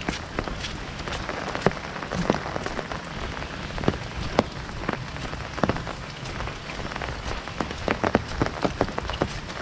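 Heavy rain drumming on an umbrella canopy overhead, a steady patter with many sharp individual drop hits.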